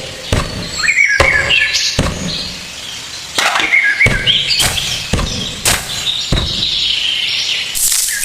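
Small birds chirping, with a string of sharp knocks or taps at irregular intervals.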